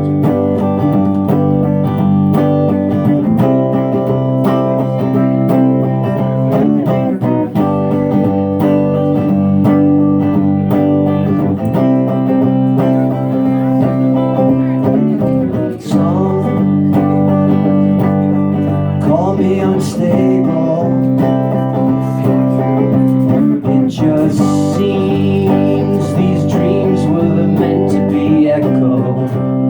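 Electric guitar, a Fender Jazzmaster, strumming ringing, sustained chords that change about every four seconds, with a brief drop out and re-strike about halfway through.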